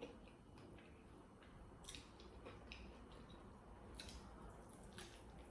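Faint chewing and wet mouth sounds of someone eating, with a few soft, sharp clicks about two, four and five seconds in.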